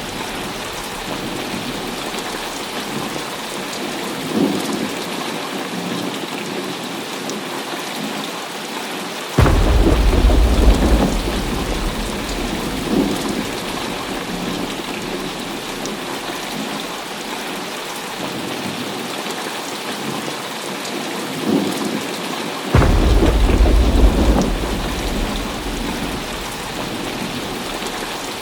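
Heavy rain falling steadily in a thunderstorm. Thunder breaks in suddenly twice, about ten seconds in and again near the end, each time rumbling on for a few seconds.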